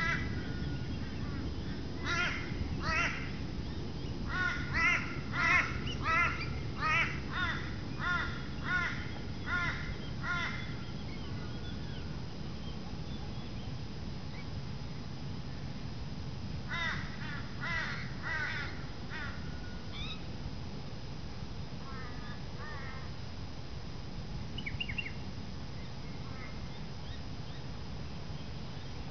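A bird calling in a run of short repeated calls, about two a second for several seconds, then a shorter run of calls about halfway through and a few fainter ones after, over a steady low rumble.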